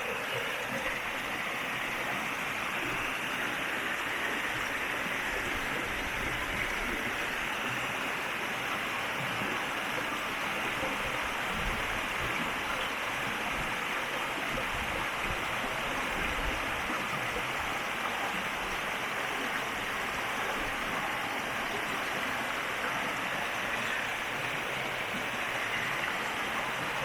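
River water rushing and splashing steadily over its bed, an even, unbroken flow.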